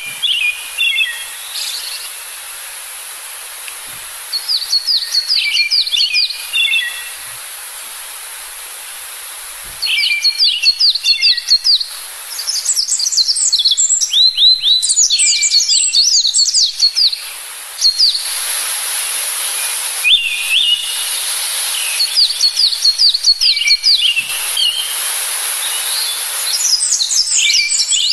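Songbirds singing in repeated phrases of quick, falling chirps with short pauses between, over a steady background hiss.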